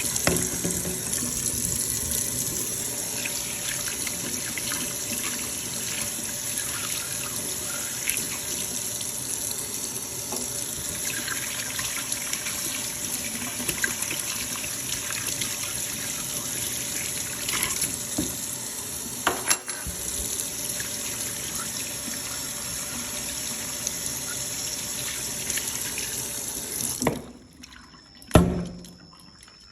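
Water running steadily from a tap, with a few small knocks, shutting off near the end and followed by a single knock.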